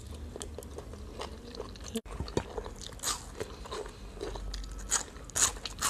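Close-up chewing of octopus tentacle: wet mouth clicks and smacks with a few sharper crunches, the loudest about five and a half seconds in.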